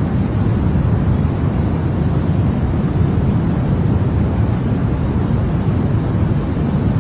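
Continuous sleep noise of the kind sold as white noise for babies. It is a steady, unbroken rush, heavier in the low end than true white noise, more a deep even rumble than a hiss.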